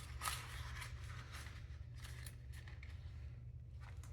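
Paper bills and envelopes being handled: soft rustling, with a click about a third of a second in.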